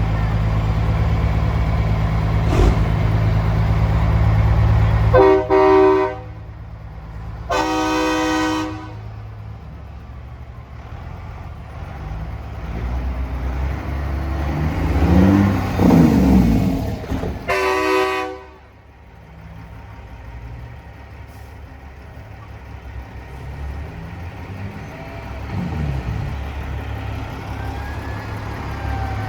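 Diesel semi trucks rumbling past, with three truck air-horn blasts: two about two seconds apart and a third about ten seconds later. Between them, an engine rises in pitch as it accelerates.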